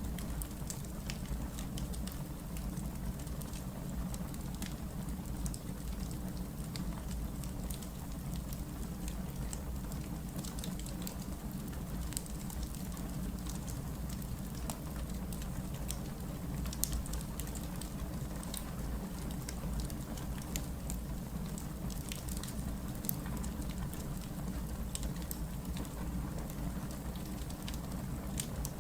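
Wood fire burning: a steady low rush of flame with scattered sharp crackles and pops from the logs, one pop about two-thirds of the way through standing out louder.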